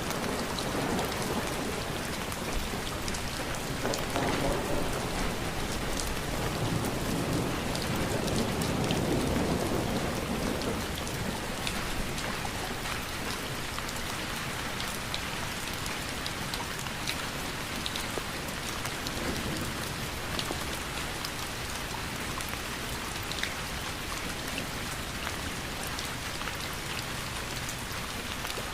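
Steady rain falling, with individual drops ticking sharply on a nearby surface. A low rumble of thunder swells and fades in the first half.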